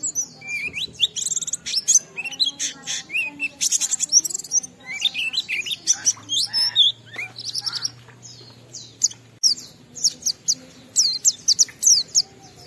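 A pleci (white-eye, Zosterops) singing a long, unbroken, rapid song of varied high chirps, twitters and short trills. This is the 'ngalas' style of song that keepers play to set other white-eyes singing.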